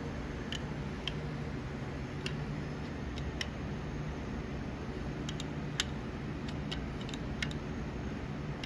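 Scattered light clicks and ticks, irregular and about fifteen in all, from handling metal tools and the machinist level while adjusting a machine's level, over a steady low hum.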